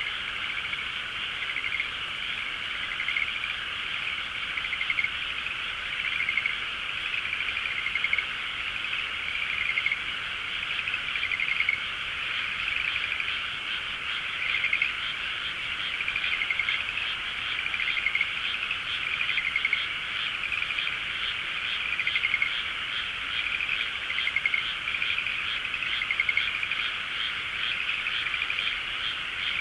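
A dense chorus of many frogs calling without pause, a pulsing trill with louder swells every couple of seconds.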